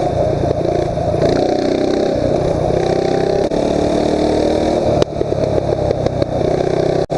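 Mini bike engine running as it is ridden along the road, its pitch stepping up and down with the throttle.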